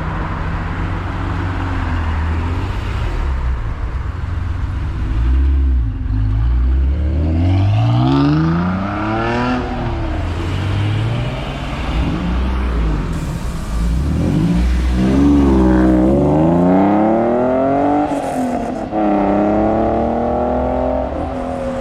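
Car engines revving as cars pull away, pitch climbing and then dropping with each gear change, several times over.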